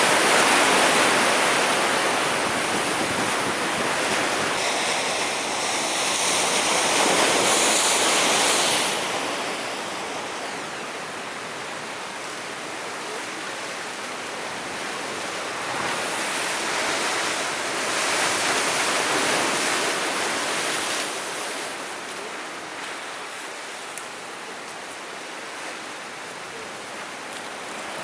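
Sea waves breaking and washing over the shore. Two surges, a long one through the first nine seconds and a shorter one around the middle, each easing off into a softer wash.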